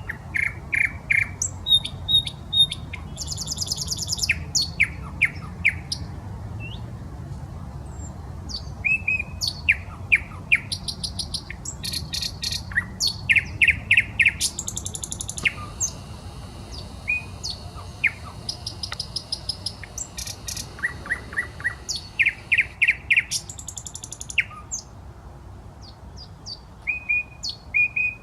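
Nightingale singing a long run of varied phrases: repeated whistled notes, rapid clicking trills and high buzzy rattles, each phrase a second or two long with short pauses between.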